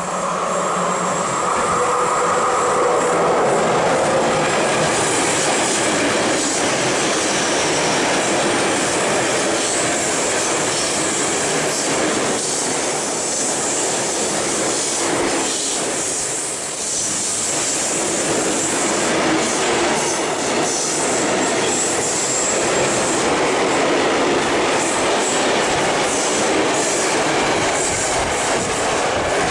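Freight train of flat wagons rolling past close by, with a steady loud noise of wheels on rail and clattering over the rail joints. Thin squeals from the wheels come in the first few seconds.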